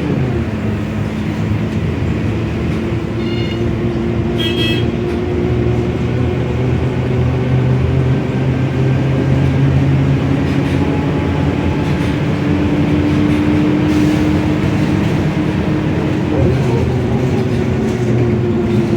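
Mercedes-Benz OM906LA six-cylinder diesel engine of a rear-engined O500-U city bus running under way, with a ZF Ecomat automatic gearbox. Its pitch climbs slowly and drops back about sixteen seconds in. A brief high chirp comes about four seconds in.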